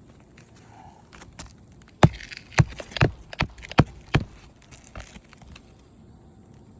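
A hammer nailing down an asphalt roof shingle: about six quick sharp blows, roughly two or three a second, then one lighter tap.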